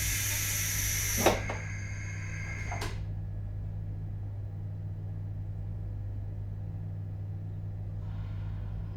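Compressed-air hiss aboard a JR Hokkaido 721-series electric train, ending in a sharp knock a little over a second in, with a fainter hiss that stops about three seconds in. After that only a steady low hum from the train's onboard equipment remains, with no traction whine, so the train is standing still.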